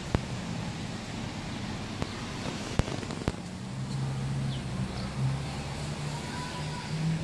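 Steady motor-vehicle traffic noise with a low engine hum that grows stronger in the second half, and a few sharp clicks.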